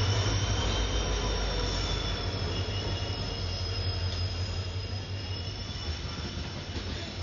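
Indian Railways passenger train pulling into a platform behind a diesel locomotive, its locomotive and coaches rolling past with a low rumble. A steady high-pitched wheel squeal rings over it, and the sound slowly fades as the train slows.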